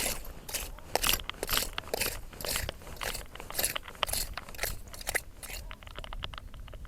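A clam rake being scraped through sand and mud in repeated strokes, about two a second, while searching for surf clams. The strokes thin out into fainter gritty clicks after about five seconds.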